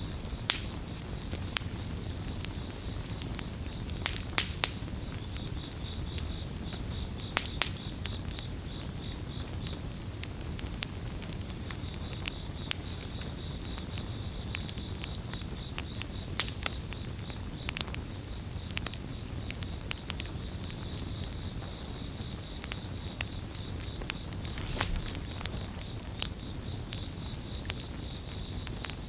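Campfire crackling, with sharp pops scattered irregularly over a low steady rumble of the burning wood. A cricket chirps in a fast pulsing trill from about five seconds in, breaking off briefly near ten seconds.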